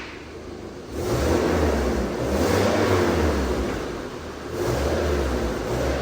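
Suzuki Jimny's engine and running gear rising in two surges, about a second in and again near the end, with a heavy low rumble.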